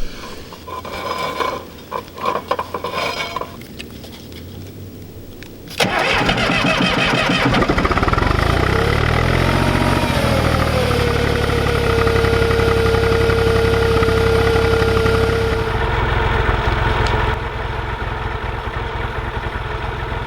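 Heavy machine engine starting abruptly about six seconds in, revving up, then running steadily with a high whine before settling back a little near the end.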